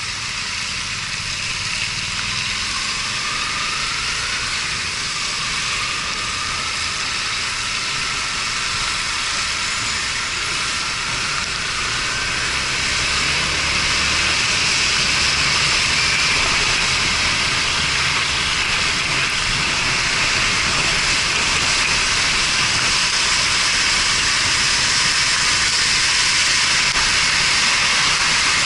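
Riding noise from a Yamaha Fazer 250 motorcycle: a steady hiss of wind and road, slowly growing louder, with the single-cylinder engine running faintly underneath and rising in pitch in the first half.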